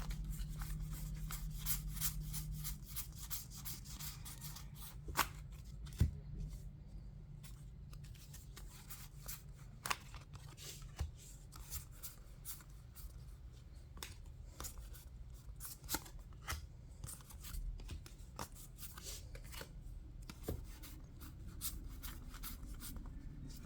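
Trading cards being handled and sorted by hand: a run of small clicks and rubbing as cards slide against each other and are set down, over a faint steady low hum.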